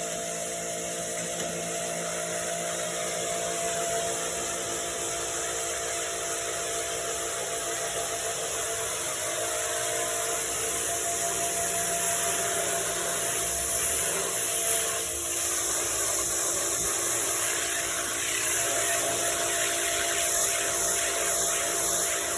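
A small motor running steadily, with several even humming tones under a strong high hiss; it gets a little louder in the second half.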